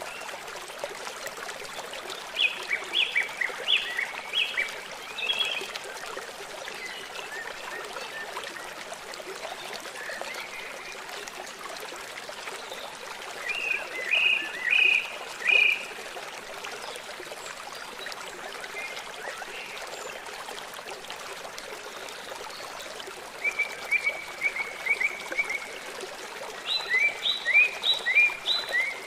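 A river or stream running steadily, with a songbird singing short phrases of quick repeated high notes four times over it, the last two a fast trill and a rapid series of notes near the end.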